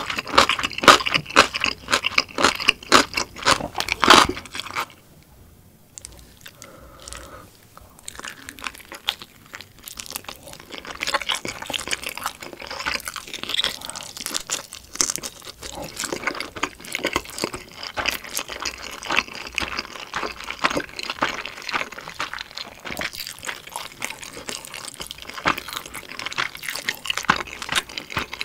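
Close-miked eating: a person chewing and biting dumplings, with quick wet clicks of the mouth. The chewing is loudest for the first few seconds, drops to a lull, then picks up again as another dumpling is bitten and chewed.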